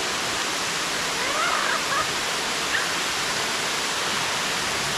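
Waterfall rushing close by: a steady, loud hiss of falling water.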